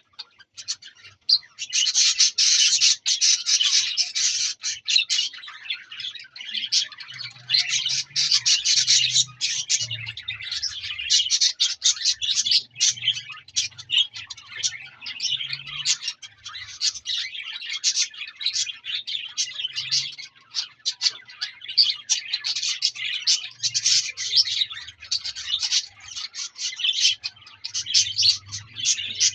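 Many small parrots in a breeding aviary, cockatiels and budgerigars, chirping and chattering continuously, a dense overlapping mix of short tweets and calls.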